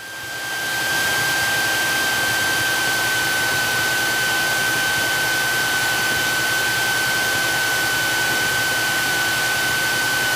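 Cessna 172SP's four-cylinder Lycoming IO-360 engine running steadily, heard through the cockpit headset audio, with a steady high-pitched whine over the engine noise. It fades up over the first second and then holds an even level.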